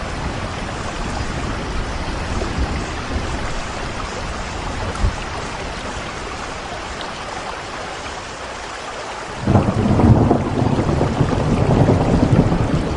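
Steady rainfall hissing, then about three-quarters of the way through a sudden loud rumble of thunder breaks in and keeps rolling.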